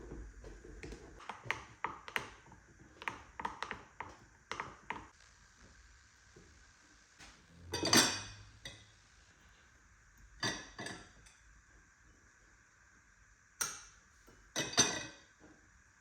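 Kitchenware being handled: a quick run of light clinks and taps, then a few louder separate knocks and clatters, the loudest about eight seconds in.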